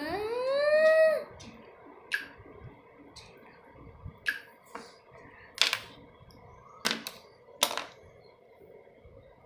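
A moo, rising in pitch and cutting off about a second in, followed by six sharp clicks spaced irregularly over the next several seconds.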